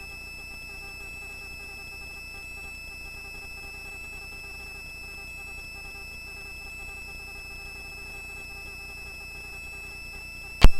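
Helicopter in flight, heard as a faint steady hum with thin high whining tones, and a sharp click near the end.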